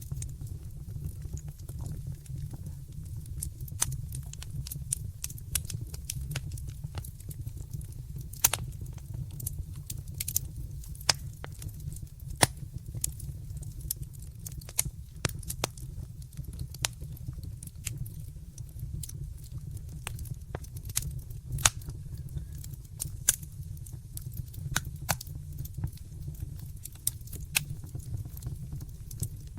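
Wood fire burning in a fireplace: steady low rumble of the flames with irregular crackles and occasional sharper pops.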